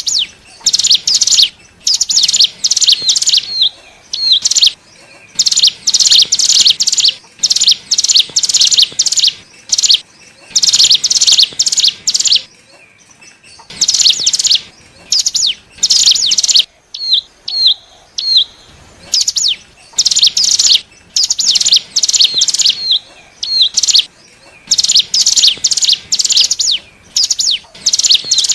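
Ciblek gunung (cigun), a prinia, singing: rapid runs of high, sharp notes in bursts of half a second to a second and a half, repeated after short pauses, with a few single short hooked chips between them.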